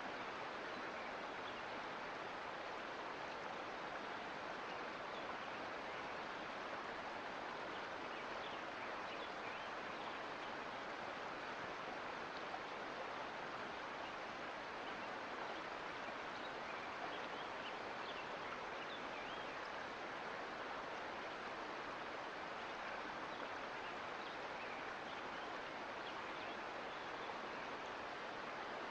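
Mountain creek flowing over rocks: a steady rushing babble of water that does not change.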